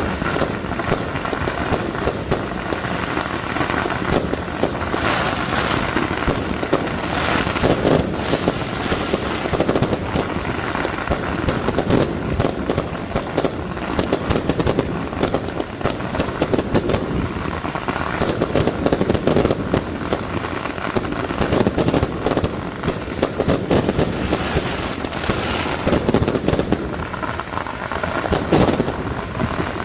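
Fireworks and firecrackers going off in dense, continuous rapid crackling and popping.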